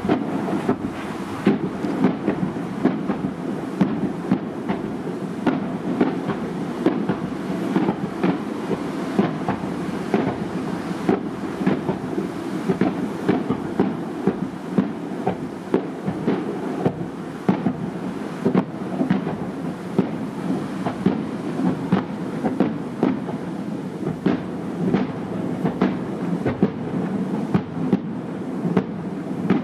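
Aerial fireworks shells bursting over the sea in a rapid barrage: a string of sharp bangs, about two or three a second, over a continuous rumble as the reports echo around the bay.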